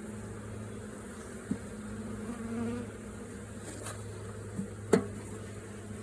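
Honeybee colony in an open hive humming steadily, with a few light knocks and one sharper knock about five seconds in.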